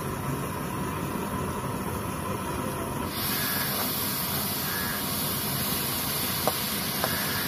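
Shredded cabbage sizzling in hot oil in a steel kadai, a steady hiss that grows brighter and a little louder about three seconds in. Two faint ticks of the steel ladle against the pan come near the end.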